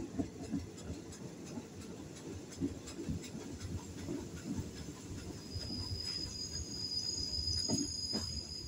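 Passenger train running, heard from inside the carriage: a steady low rumble with irregular knocks and clatter of the wheels over the rails, with two sharp knocks near the end. From about halfway, a steady high-pitched whine joins in.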